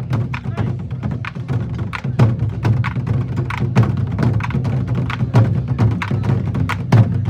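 Korean drum ensemble drumming with sticks in a fast, steady rhythm: low drum tones under sharp, clicking stick strikes, several a second.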